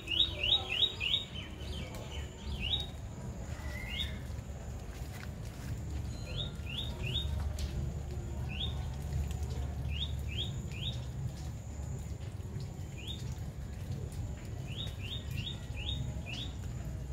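A bird calling in short, rising chirps, some in quick runs of three to five and some single, over a steady low rumble.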